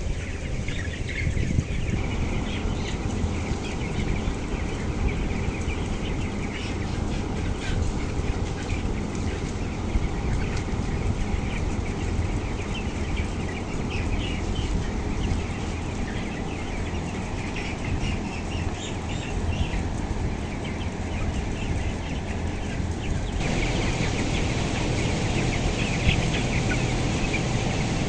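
A flock of broiler chickens peeping and clucking, many short calls overlapping, over a steady low rumble.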